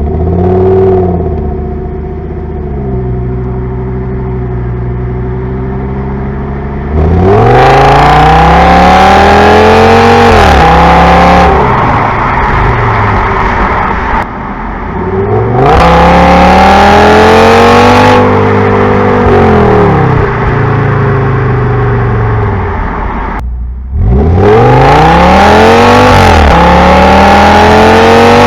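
Audi S8's 5.2-litre V10 through its stock exhaust, idling and then revved up and back down three times, each climb lasting several seconds. A brief blip comes near the start.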